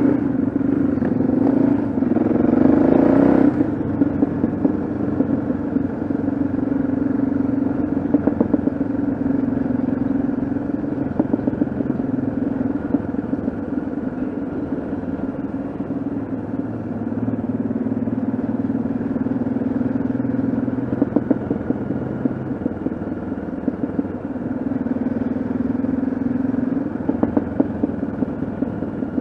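Yamaha XT660Z Ténéré's single-cylinder engine running steadily on the move, a little louder for the first few seconds.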